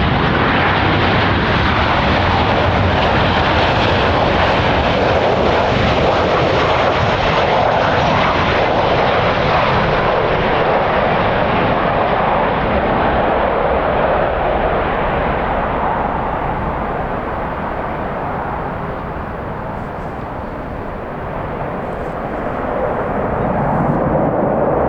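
Jet airliner engine noise: a loud, steady rushing that eases off about two-thirds of the way through, then swells again near the end.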